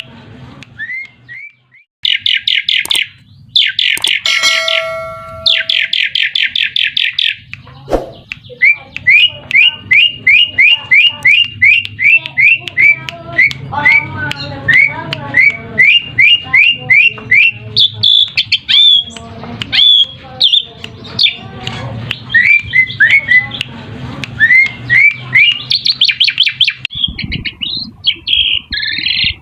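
Asian pied starling (jalak suren) singing: a few harsh chattering bursts, then a long run of quick, rising whistled notes about two a second, with harsher notes near the end. The song is played as a lure call to get other jalak suren to answer.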